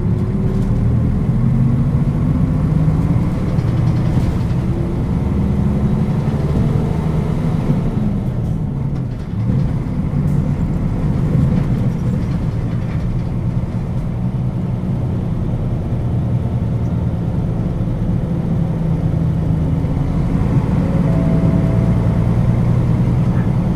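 Nissan Diesel KL-UA452KAN city bus diesel engine pulling away and accelerating, its pitch rising through the gears with a brief drop in level about nine seconds in at a shift, then running steadily at cruising speed.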